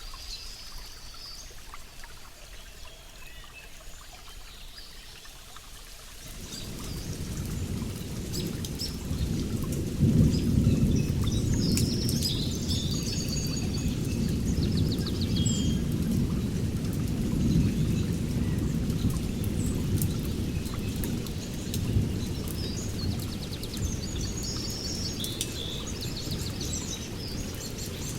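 Songbirds chirping and twittering in short, high, repeated calls. About six seconds in, a loud low rumble comes in and stays underneath the birds.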